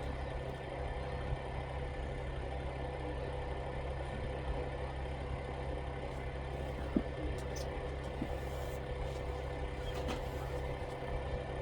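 Steady low mechanical hum, like an idling engine or running appliance, with a single faint click about seven seconds in.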